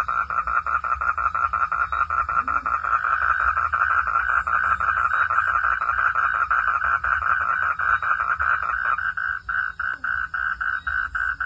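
Frogs calling in a fast, steady pulsed chorus, about five pulses a second. About nine seconds in the fuller, lower part of the chorus drops out and a single thinner call carries on.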